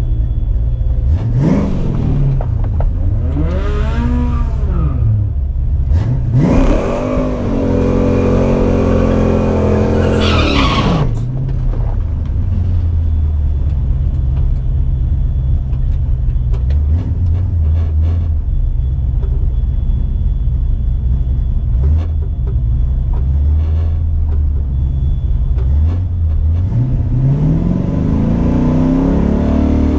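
Car engine revving: the revs rise and fall twice, then climb for several seconds and drop away about eleven seconds in. A low steady rumble follows, and the revs climb again near the end.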